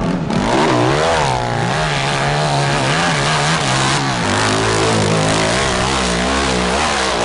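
Motocross bike's engine revving hard under load, its pitch swinging up and down with the throttle, then holding a steadier, lower note from about four seconds in.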